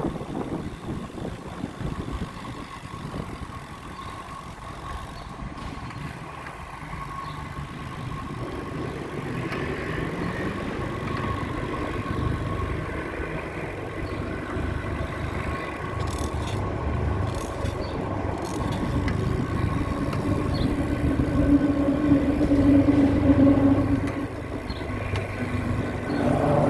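Road traffic: the low rumble of motor vehicles, building through the second half, with an engine hum loudest a few seconds before the end.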